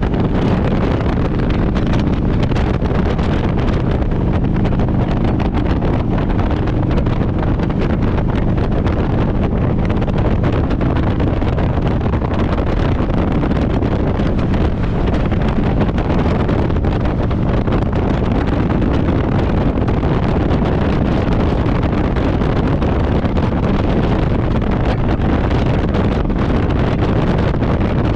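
Harley-Davidson Road Glide's V-twin engine running steadily while riding, with wind rushing over the microphone.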